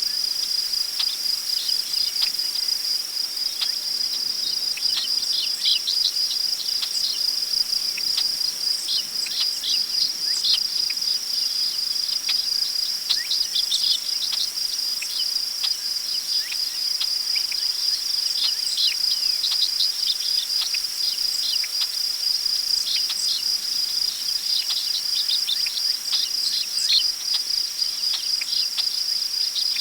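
Crickets trilling in one steady high, unbroken chorus, with scattered clusters of short bird chirps below it.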